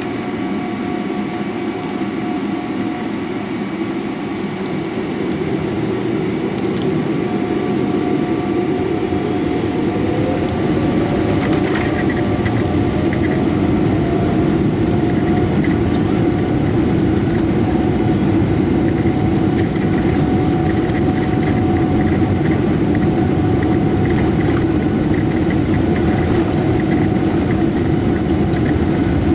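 Boeing 777-300ER's GE90 engines heard from inside the rear cabin, spooling up with a tone rising in pitch about ten seconds in, the noise climbing until about fourteen seconds in, then a steady loud engine and rolling rumble as the jet accelerates for takeoff.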